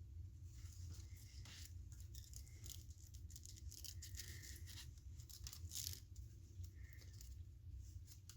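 Faint rustling and small scratching of thread being pulled and knotted on a willow hoop, in short irregular bursts over a steady low hum.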